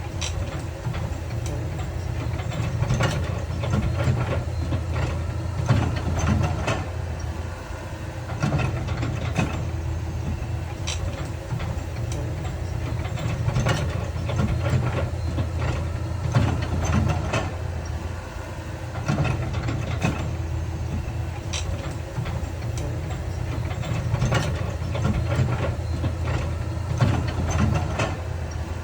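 Heavy diesel earthmoving machinery running steadily, with frequent sharp metallic clanks and knocks over the engine drone.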